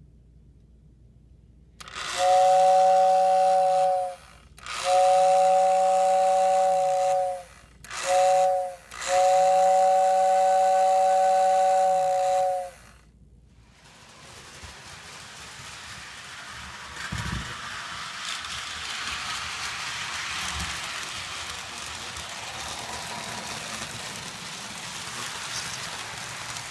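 Lionel model train whistle blowing a two-note chord in four blasts, long, long, short, long, the grade-crossing signal. After it, a steady rushing noise builds as the train runs.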